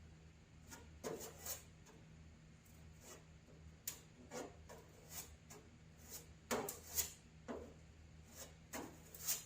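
Body filler being pushed into rust holes and raked across a steel car hood with a spreader, about a dozen short, irregular scrapes. A faint steady low hum runs underneath.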